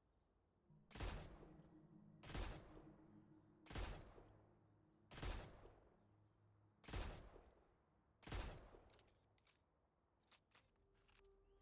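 Gunshot sound effects of the modded Magshot R45 V2 weapon: six single shots about a second and a half apart, each with a ringing tail. A few quieter mechanical clicks follow near the end.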